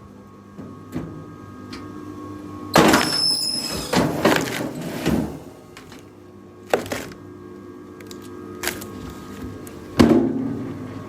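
A series of sharp knocks and thuds, about seven, spaced irregularly over a steady hum, with the loudest blows about three seconds in and near the end.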